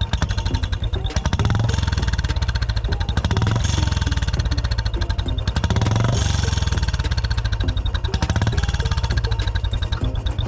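Royal Enfield Bullet 350's single-cylinder engine running with a steady exhaust beat, a turbo whistle fitted into the end of the silencer.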